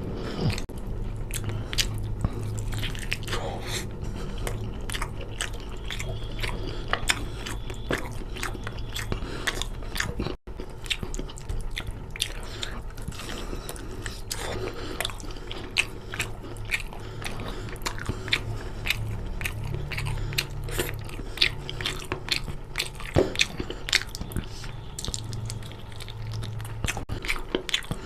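Close-miked chewing and biting of chicken curry with rice: a dense, continuous run of wet mouth clicks and smacks. The sound drops out for an instant about ten seconds in.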